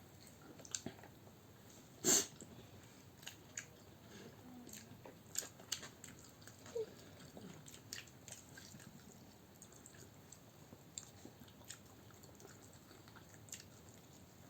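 Quiet eating sounds of chicken biryani and kebab being chewed, with scattered small clicks and smacks and one louder click about two seconds in.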